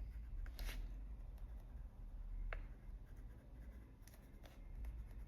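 Faber-Castell Polychromos colored pencil shading lightly on paper: a faint, scratchy rubbing with a small tick about two and a half seconds in.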